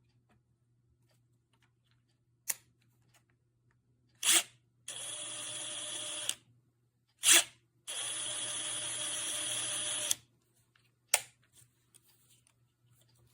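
HiKOKI WH36DD 36V cordless impact driver running in two short steady bursts, about a second and a half and then about two seconds, each start preceded by a sharp knock. Single clicks come before and after.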